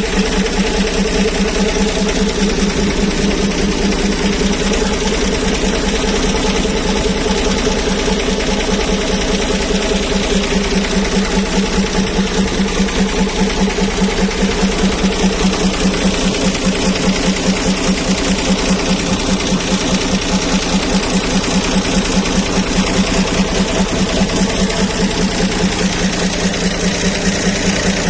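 Turbocharged Mercedes-Benz 352 inline-six diesel engine in a Ford D800 truck running steadily at a constant speed, with an even, rapid pulsing beat.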